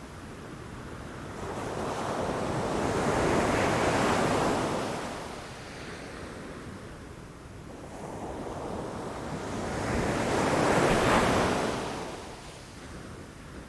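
Ocean waves breaking against shoreline rocks: two surges of surf, one about four seconds in and one near eleven seconds, each swelling to a crash and then washing back.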